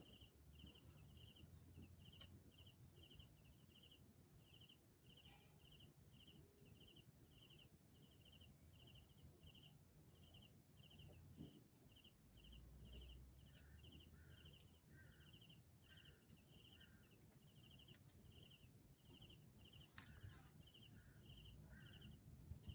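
Faint insects calling, likely crickets: short pulsed chirps repeating a little more than once a second, over an on-off higher-pitched buzz.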